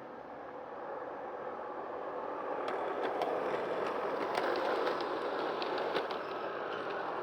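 G-scale garden model train running along the track and growing louder as it approaches, with a run of sharp clicks from about three seconds in as the wheels pass over the rail joints.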